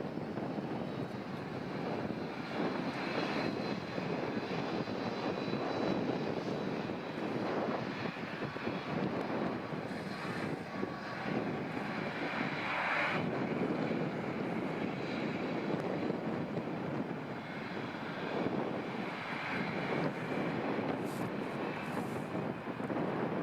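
Airliner engines running, a steady rush of noise with a faint high whine over it.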